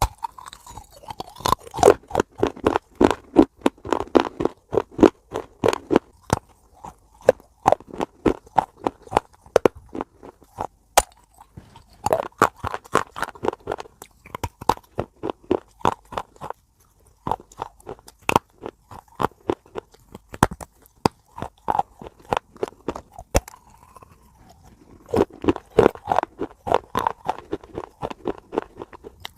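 Close-miked chewing of crunchy food: rapid, sharp crunches several times a second, in runs broken by brief pauses.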